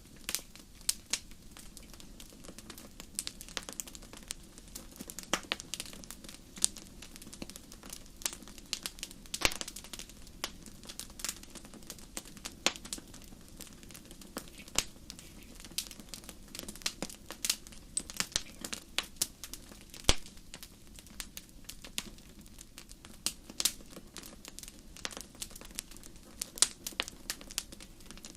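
Wood fire crackling in a fireplace: irregular sharp pops and snaps from the burning firewood, some much louder than others, over a steady low rumble of the flames.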